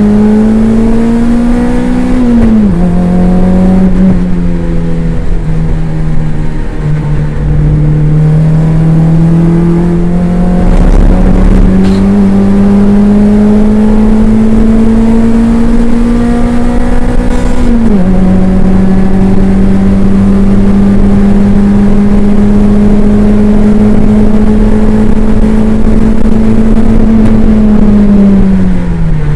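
Toyota MR2 race car's engine heard from inside the car under hard acceleration, its pitch climbing slowly and dropping sharply at an upshift about two and a half seconds in and again a little past halfway. Near the end the engine note falls away as the car slows.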